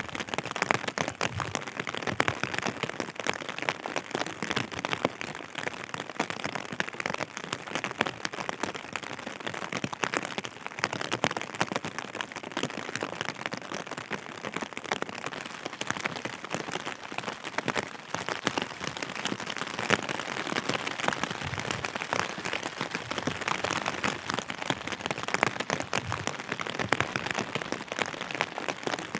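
Steady rain falling, with a dense stream of individual drop hits close to the microphone.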